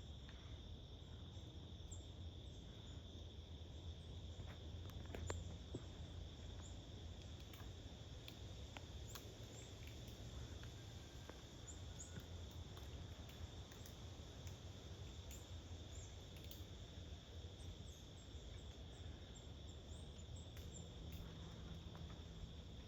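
Faint outdoor ambience: a steady high-pitched insect chorus with scattered light ticks and a low background hum.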